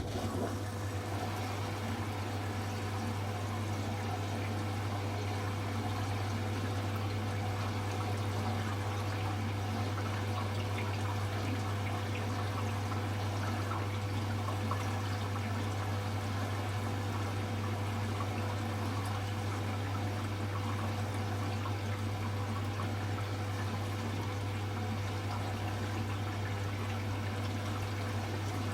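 Hoover H-Wash 300 Plus washing machine moving water: a steady low hum with water rushing, starting abruptly and running on evenly.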